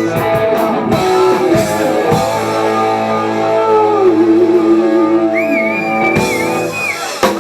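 Live rock band with electric guitar and drum kit playing: drum hits over the first two seconds, then a long held chord with a wavering guitar note, closed by one sharp hit near the end.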